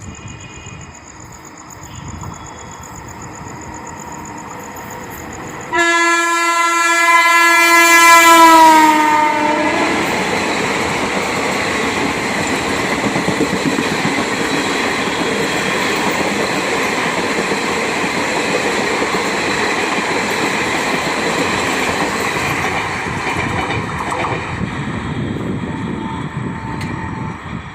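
Dehradun Jan Shatabdi express train approaching and passing: its locomotive sounds one long horn blast about six seconds in, the pitch dropping as it goes by, then the coaches run past with a steady rumble and wheel clatter that fades near the end.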